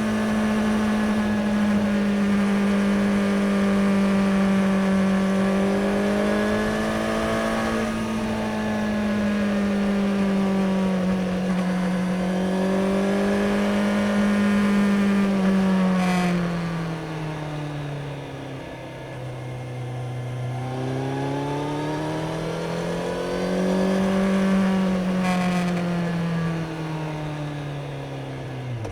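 Kawasaki Z900's inline-four engine under way at a steady cruise, its pitch wavering gently. About 16 s in the revs drop away as the rider eases off, then climb again and drop once more near the end.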